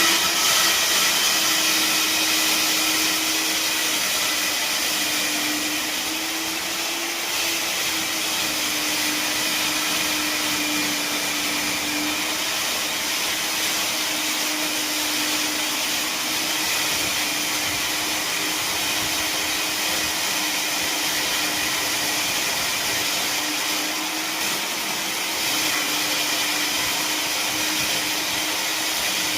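Electric diamond core drill running steadily while cutting a hole through a wall: a continuous high whine over a hum that drifts slightly up and down in pitch.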